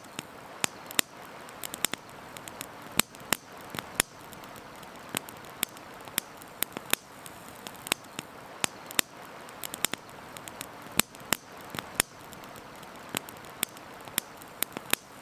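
Wood campfire crackling: irregular sharp pops and snaps, several a second, some much louder than the rest, over a steady background hiss.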